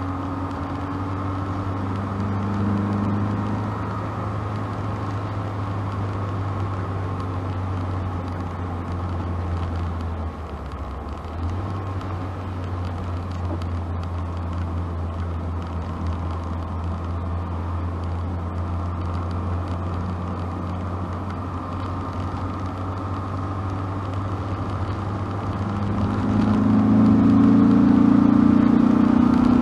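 Opel Kadett C Coupe 2.0E heard from inside the cabin while driving: its 2.0-litre fuel-injected four-cylinder engine and exhaust run at a steady cruise under road noise, dip briefly about ten seconds in, then grow louder near the end as the car accelerates.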